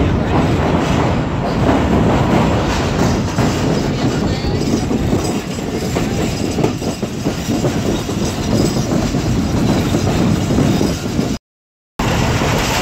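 Passenger train running at speed, its wheels rumbling and clattering over the rails as it comes off an open-deck steel bridge. The sound cuts out completely for about half a second near the end, then carries on.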